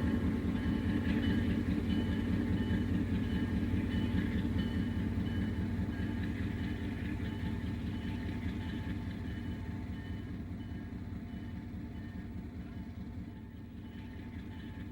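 A pair of Alco PA passenger diesel locomotives running: a steady engine rumble that slowly fades as they move away.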